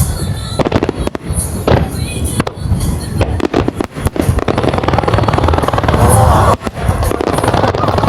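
Aerial fireworks bursting in rapid succession, booms and crackling overlapping, with music playing underneath.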